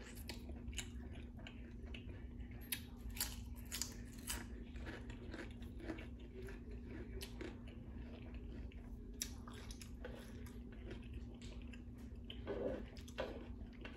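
A person chewing and biting food, with many short, crisp crunches.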